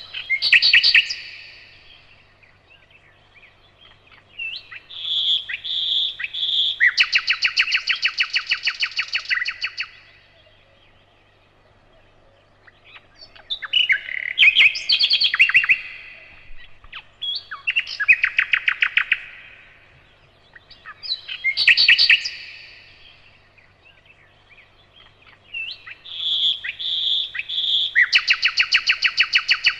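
Nightingale singing in separate phrases a few seconds long with pauses between them, mixing clear whistled notes with fast rattling runs of repeated notes; twice a phrase opens with three slow whistles before breaking into a rapid run.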